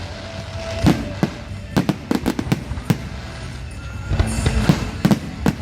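Fireworks display: irregular sharp bangs and crackles from exploding aerial shells, several in quick clusters, over a steady low rumble.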